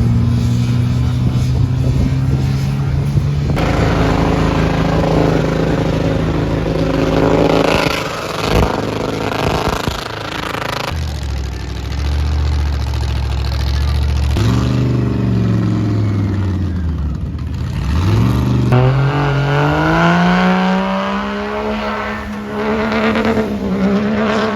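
A truck engine running and being revved: its pitch holds steady, swoops down and back up a little past halfway, then climbs steadily toward the end.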